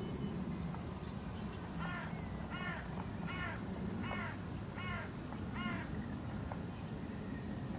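A bird calling six times in an even series, about three-quarters of a second apart, over a steady low rumble.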